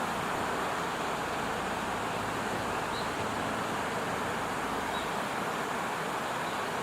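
Steady, even rushing noise outdoors, with a few faint high chirps.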